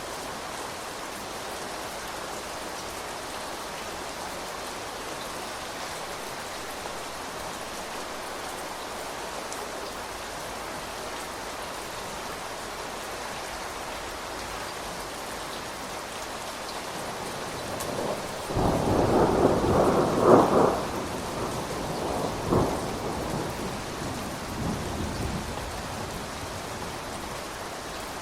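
Steady rain falling, with a roll of thunder starting about two-thirds of the way in: a sudden loud rumble with sharp cracks that peaks after a couple of seconds and dies away in smaller rumbles.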